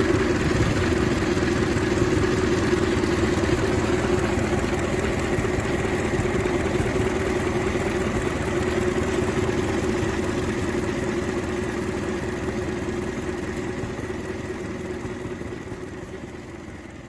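Vintage car engine idling steadily, a low even running note with no revving; it slowly fades away over the last several seconds.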